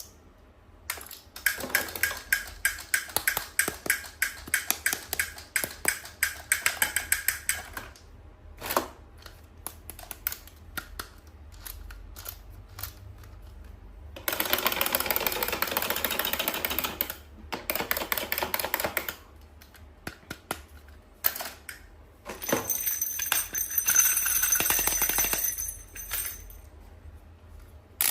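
Plastic toys and packaging being handled: a run of rapid sharp clicks for several seconds, then two longer stretches of dense crinkling rustle later on.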